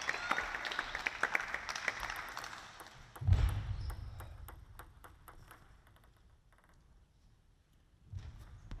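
Crowd applause in a sports hall dying away over the first few seconds. About three seconds in comes a single low thud, followed by scattered light taps.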